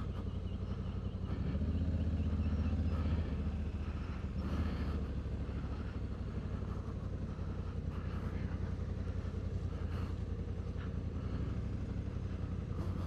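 Honda Africa Twin's 1084 cc parallel-twin engine running steadily at low revs, a little louder for a second or two near the start, with a few faint clicks.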